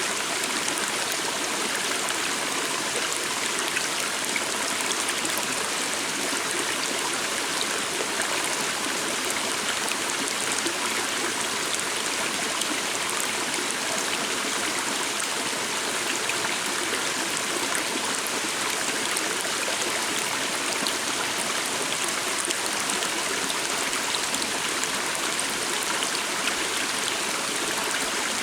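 Small forest stream flowing, a steady rush and babble of running water.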